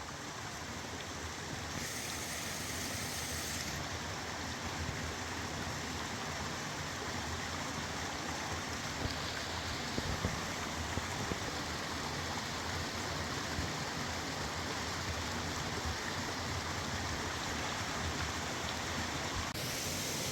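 Fast mountain river rushing, a steady broad roar of flowing water.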